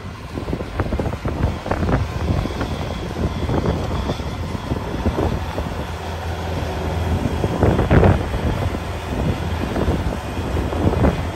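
Strong gusting wind buffeting the microphone, over a low steady engine rumble from a vehicle working in the storm.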